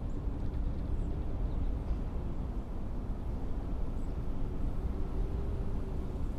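Blizzard wind blowing in a steady low rush.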